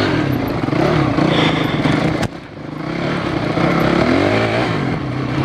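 Enduro dirt bike's engine running under way, its pitch rising and falling. About two seconds in, there is a click, and the engine sound drops away sharply, then builds back up.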